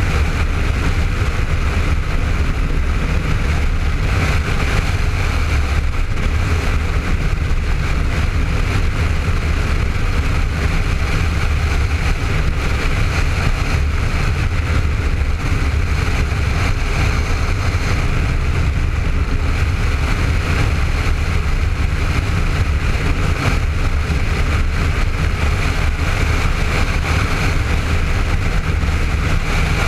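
Steady wind rush and low rumble on a helmet-mounted camera while riding a Honda ST1300 motorcycle at road speed, its V4 engine running underneath.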